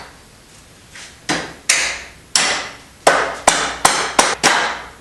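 Hammer striking metal about eight times, each blow ringing briefly, the blows coming quicker in the second half.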